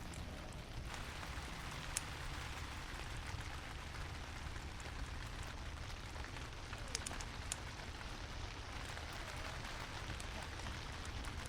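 Steady heavy rain falling, with a low rumble underneath and a few sharper drop hits, one about two seconds in and a couple around seven seconds.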